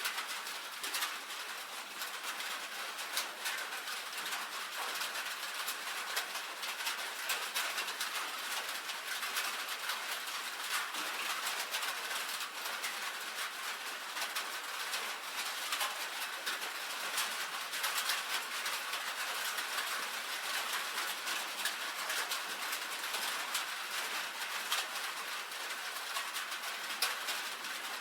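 Rain drumming on a tin roof: a dense, steady patter of countless small drop ticks on the sheet metal.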